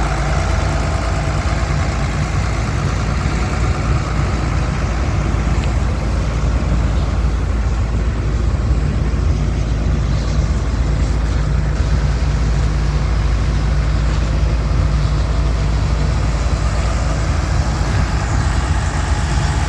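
1971 Case 970 tractor's diesel engine running steadily at an even speed, with no revving.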